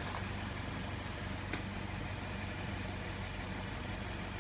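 A small engine idling nearby, a steady low hum. A single faint click comes about a second and a half in.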